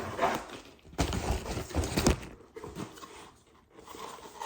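Packaging being handled: rustling and crinkling with a few dull thumps, the loudest a little after a second in.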